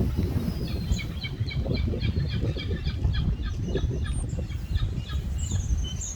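Birds calling in quick, evenly repeated short high chirps, with a falling run of higher notes near the end, over a steady low rumble.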